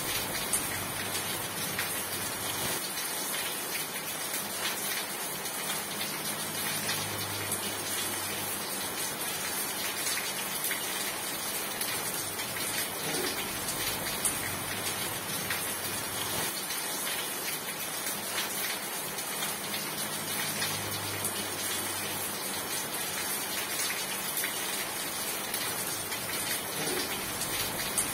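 Steady rain falling, a dense, even patter of drops. A faint low hum swells in and fades out a few times underneath.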